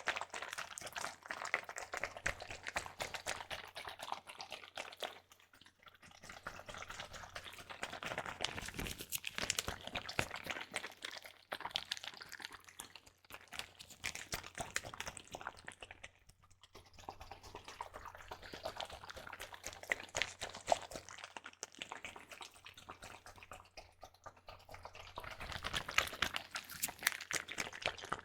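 Water squishing and sloshing inside a plastic zip-top bag handled close to the microphone, in irregular crackly bursts with brief pauses.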